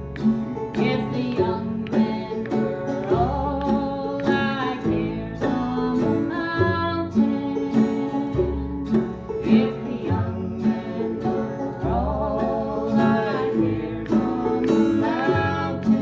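Acoustic folk band playing live: guitar with a bass line under a melody that wavers in pitch, most likely a singing voice.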